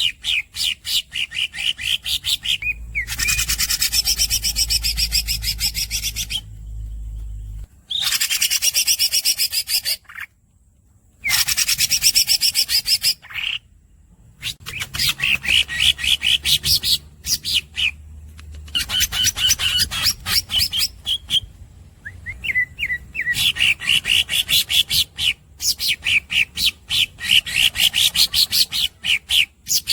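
Green leafbird (cucak ijo) singing: rapid runs of sharp, squeaky repeated notes, about six a second, broken up by long buzzing rolls lasting a few seconds and short pauses.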